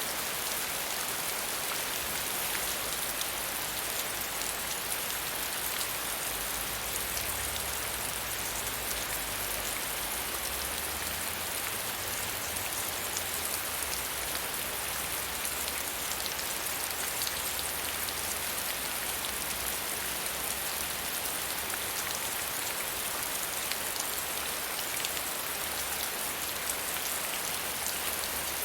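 Gentle rain falling steadily, an even hiss of many fine drops on a surface with no thunder.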